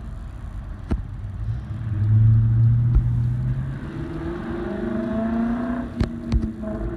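Car engine running with a deep low rumble, then revving up, its pitch rising from about four seconds in; a few sharp knocks or clicks.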